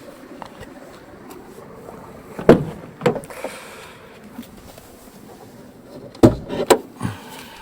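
Toyota Harrier car doors being shut, heard as two pairs of heavy thuds about half a second apart.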